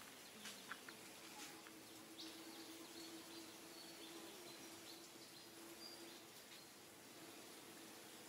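Near silence: faint outdoor ambience with a faint high-pitched bird call, held in short steady notes for a few seconds, over a low steady hum, and a few faint clicks about half a second in.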